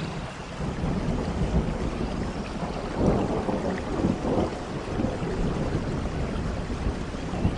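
Rain falling with a low rumble of thunder underneath. It gets louder right at the start and swells twice, about three and four seconds in.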